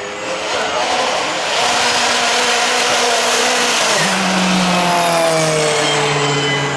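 A racing car's engine at full throttle going by, its note climbing for a few seconds and then dropping after about four seconds as it passes.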